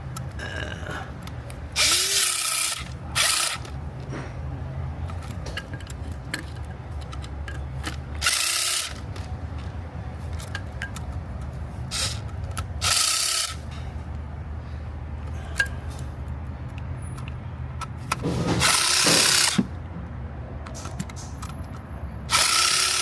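A cordless power gun, an impact or power ratchet, run in about six short bursts, the longest late on, driving in the oil filter housing screws. A steady low hum runs under it.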